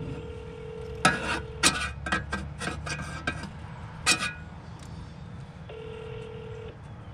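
Telephone ringback tone through a phone's speaker while a call is placed: a steady tone for about a second and a half, then after a pause of about four seconds a second ring that cuts off after about a second. Between the rings comes a run of sharp clicks and knocks.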